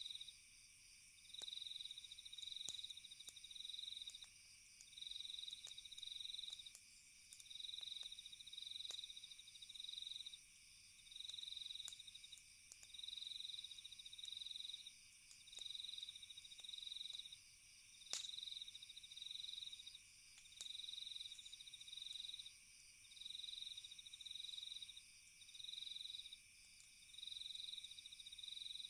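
Faint chorus of night crickets: a steady high trill under a louder chirp that pulses on and off at an even pace, about once every second and a bit. Sparse faint sharp clicks of a crackling campfire, one louder pop about two-thirds of the way through.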